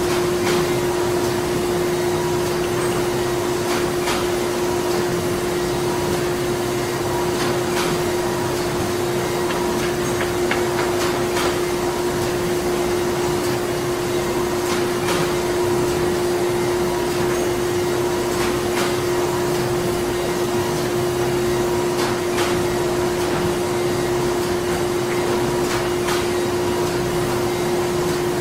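Printing-plant machinery running steadily: a continuous mechanical hum carrying one constant tone, with irregular sharp clicks and knocks every second or few.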